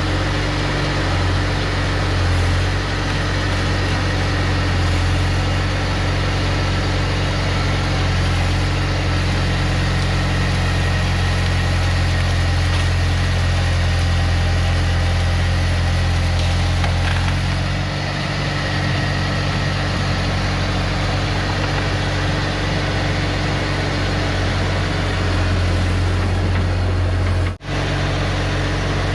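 Bobcat T250 skid-steer's diesel engine running steadily with a deep drone. It drops out for an instant near the end.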